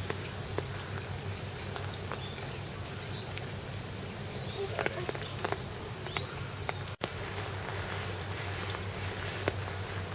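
Outdoor park ambience: a steady low hum with scattered light clicks and a few faint, short bird chirps around the middle.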